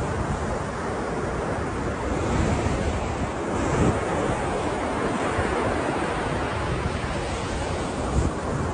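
Ocean surf: waves washing in a continuous rush, swelling louder about three to four seconds in.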